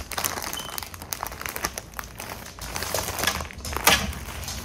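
Plastic packaging crinkling and rustling in irregular crackles as it is handled and unwrapped.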